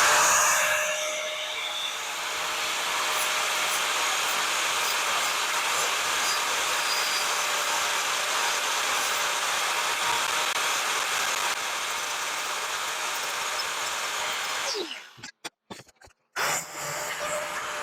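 Angle grinder grinding paint off the thin steel edges of a bed frame for welding: a steady motor whine under a harsh grinding hiss, loudest at the start. About 15 s in it is switched off and winds down, then it is started again and spins back up near the end.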